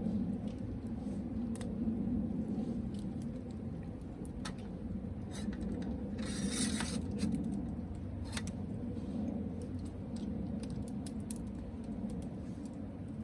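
Campfire crackling: scattered sharp pops and clicks from burning wood, with a short hiss about six seconds in, over a steady low rumble.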